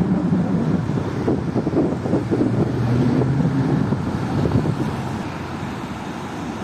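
Wind buffeting the microphone: a rough, gusty low rumble that eases a little near the end.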